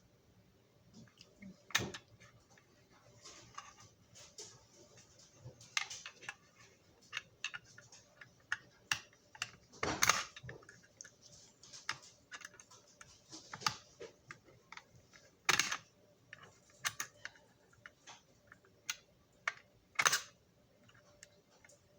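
Irregular light clicks, taps and knocks of small parts and tools being handled and set down on a workbench, with a few sharper knocks about ten, fifteen and twenty seconds in.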